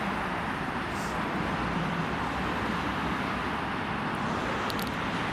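Steady highway traffic noise, an even rush of passing vehicles and tyres with no distinct events.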